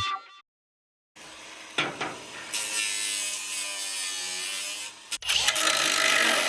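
Angle grinder grinding the steel of a sheared loader cylinder mount to clean it up for welding. The grinding starts about a second in, breaks off briefly near the five-second mark, then resumes.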